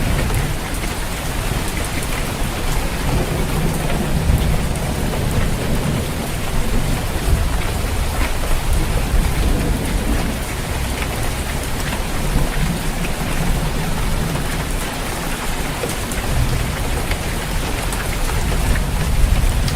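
Steady heavy rain pattering on a tiled roof, with low rolling thunder rising and fading in slow swells every few seconds.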